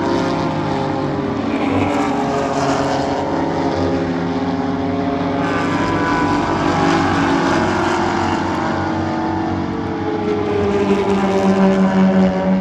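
Several race car engines running hard at once, their pitches rising and falling as cars pass and shift gears. One car's note grows louder near the end.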